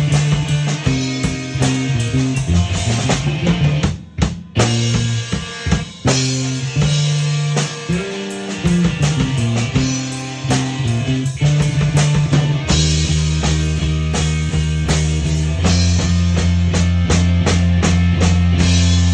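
A live band playing an instrumental passage: drum kit, electric guitar and bass. There is a short break about four seconds in, and from about thirteen seconds in the band holds long, sustained chords.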